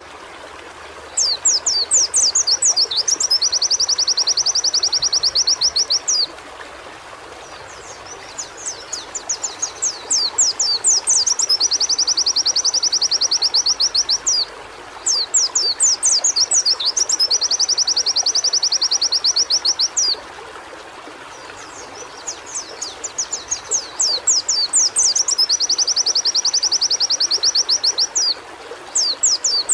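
White-eye (pleci) song: phrases of quick downward-sweeping notes, each running into a long, fast, even trill, repeated about three times with short pauses between, over a steady hiss.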